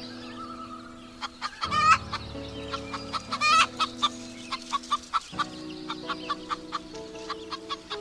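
Chicken clucking: a run of short clucks with a couple of longer calls, over soft sustained background music.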